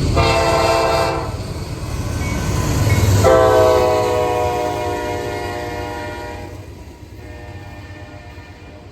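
Norfolk Southern diesel freight locomotive's air horn: a short blast, then a longer blast about two seconds later that fades away, over the low rumble of the passing train.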